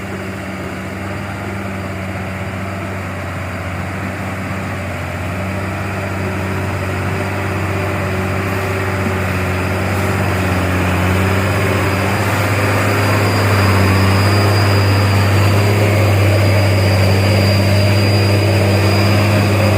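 Diesel engine of a heavily loaded coal truck (about 35 tonnes) pulling steadily under load over soft ground, a deep continuous drone that grows louder over the first two-thirds and then holds.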